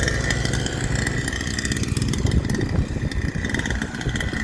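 Small 49cc dirt bike engine running, its sound rising and falling unevenly, with a steady high whine alongside.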